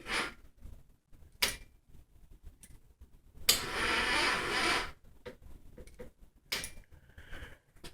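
Failed start attempt on a GY6 150cc scooter: a few sharp clicks and, in the middle, a rasping noise lasting about a second, but the engine does not turn over or fire.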